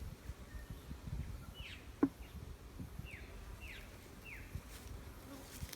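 Honeybees buzzing faintly around an open hive, with a bird repeating short falling chirps and a single sharp click about two seconds in.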